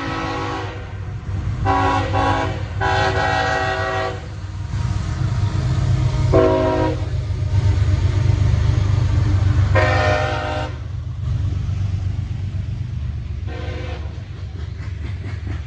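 CSX freight train's diesel locomotive horn sounding a series of about six chord blasts of differing lengths over the steady low rumble of the locomotives' diesel engines. The rumble grows louder towards the middle as the train passes.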